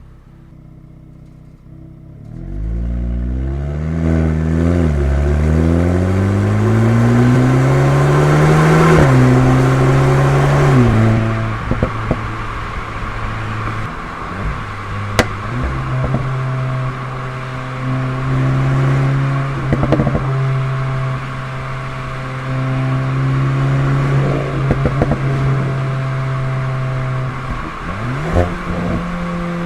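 VW Golf 8 GTI Clubsport Edition 45's turbocharged four-cylinder through an Akrapovic exhaust, quiet for the first two seconds, then rising in pitch under acceleration with one shift. About eleven seconds in it drops back, then runs at a steady pitch with a few short rev changes.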